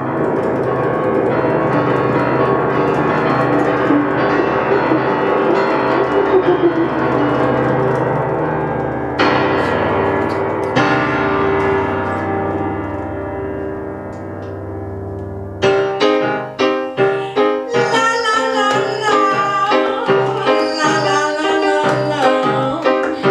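Live band music led by keyboards: held, layered chords with bell-like tones, then from about two thirds of the way in a run of evenly repeated piano-like notes, about two a second.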